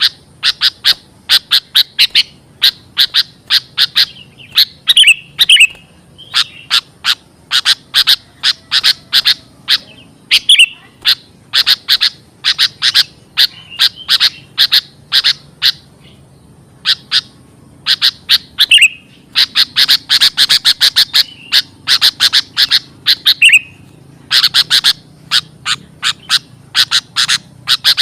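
Sooty-headed bulbul (kutilang) calls from a lure recording: runs of sharp, rapid chattering notes, about four a second, broken by short pauses and an occasional slurred note.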